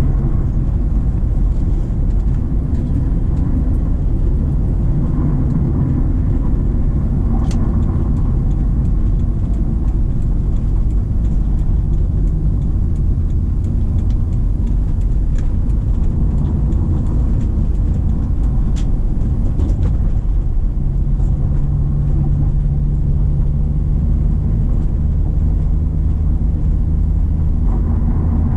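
Subaru Impreza XV's 2.0-litre flat-four boxer engine pulling steadily on a hill climb, heard with tyre and road rumble on a concrete surface. The steady engine note gives way to rumble for much of the middle and comes back about twenty seconds in.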